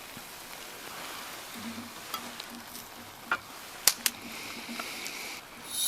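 Ramen in leftover miso broth sizzling in a frying pan over a campfire, with a few sharp clicks in the middle and a louder hiss rising near the end.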